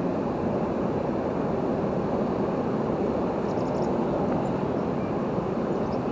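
River waterfall, a steady rush of falling water.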